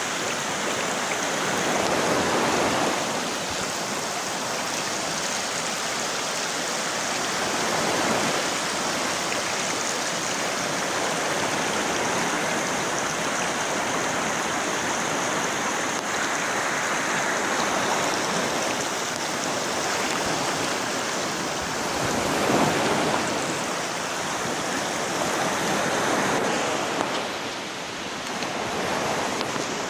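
Water rushing steadily over a waterfall, a dense even noise that swells louder now and then.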